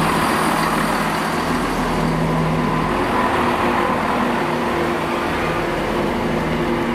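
Transport for Wales multiple-unit train moving past along the platform, a steady rumble with a low engine hum.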